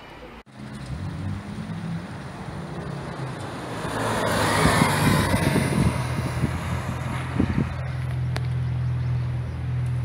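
Porsche 911 GT3's naturally aspirated flat-six engine at speed on a race track, heard from trackside. The engine note swells to its loudest about halfway through, then settles into a steady drone.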